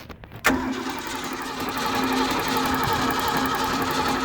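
Supra Sunsport's inboard V8 turning over on its starter motor for a compression test on one cylinder, starting suddenly about half a second in and running steadily.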